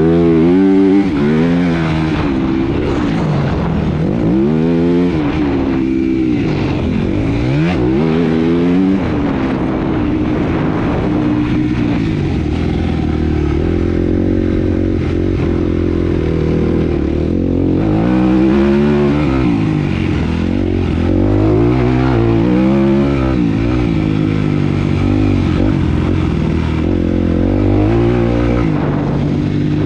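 Motocross bike engine revving up and falling back again and again, its pitch sweeping up and down in repeated bursts through gear changes and corners, over a steady low engine drone.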